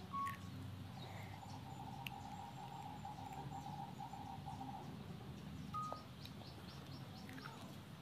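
Faint bird chirps and a trill of rapid pulses lasting about four seconds, over a low steady background hum.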